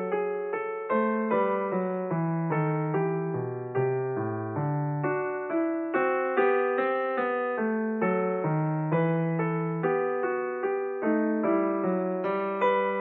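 Background music: a solo piano playing an even run of single struck notes, about two a second, each one fading before the next.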